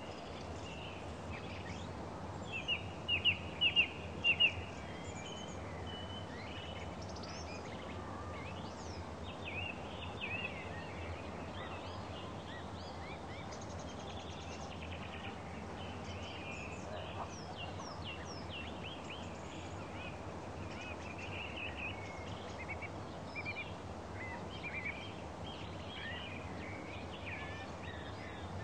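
Small songbirds chirping and twittering in many short calls over a steady low rumble. The loudest is a quick run of bright chirps a few seconds in.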